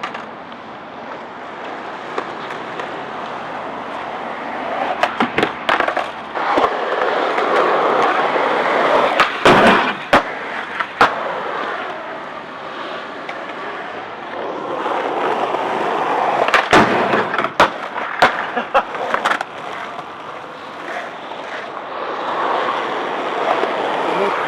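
Skateboard wheels rolling and grinding on a grind box, the rough rolling noise swelling and fading, with several sharp clacks of the board hitting down, bunched around a quarter, two fifths and three quarters of the way through.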